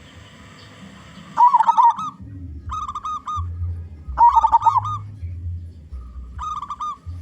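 Zebra dove (perkutut) cooing: four short warbling phrases of rapid coo notes, the first and third the loudest, over a low background rumble.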